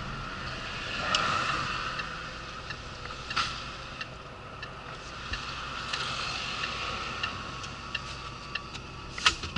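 A Renault 26-tonne rigid truck heard from inside the cab, its engine idling at a standstill: a low steady hum with a few scattered light clicks.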